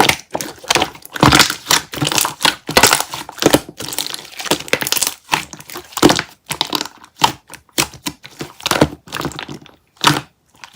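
Mixed slime being squeezed and pressed by hand, giving a dense run of irregular sticky clicks and crackles that thin out to a few separate pops near the end.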